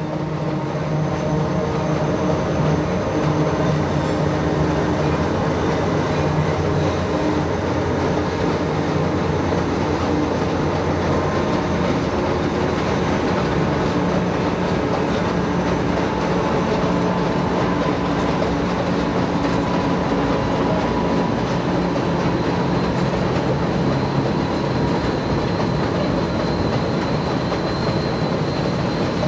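Passenger train crossing a steel truss bridge: a steady, loud rumble of wheels on the bridge under a locomotive engine's continuous drone, building up in the first couple of seconds and then holding level.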